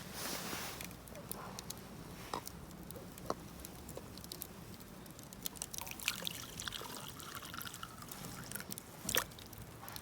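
Liquid trickling as it is poured, among scattered sharp ticks and pops from a wood campfire, with one louder pop near the end.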